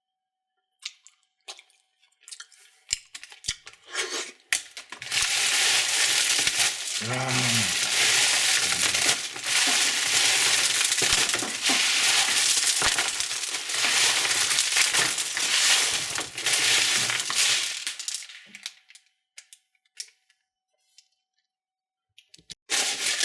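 Candy wrappers and plastic packaging being handled and torn open: scattered crinkles and clicks, then several seconds of loud, continuous crackling and tearing that fades back to a few crinkles near the end.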